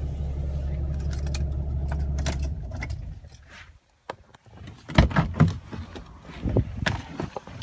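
2012 Ram 2500's Cummins turbo diesel idling with a low steady hum that cuts off about two and a half seconds in, followed by keys jangling and clicking.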